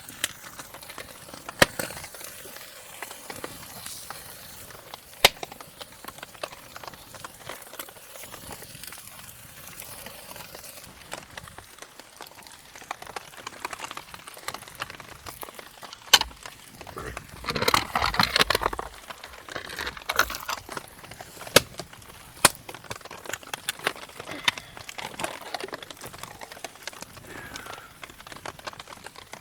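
Wood campfire crackling, with scattered sharp pops over a steady hiss of rain. About seventeen seconds in, a louder rustling crackle lasts a second or two.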